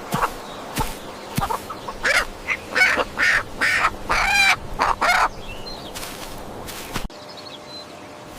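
Chickens clucking: a quick run of short calls with one longer, drawn-out call among them, and a few knocks between.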